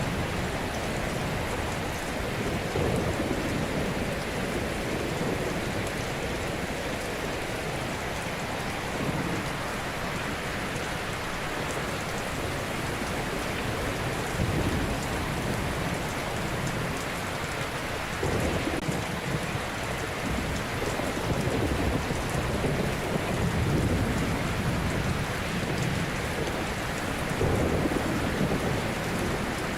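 Ocean surf: a continuous wash of waves breaking on a shore, with a deeper surge every few seconds as each wave comes in.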